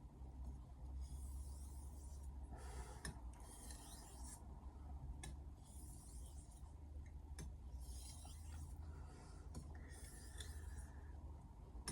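Misono 210 mm Japanese knife blade being stroked on a whetstone: a series of faint, soft scraping strokes, roughly one a second.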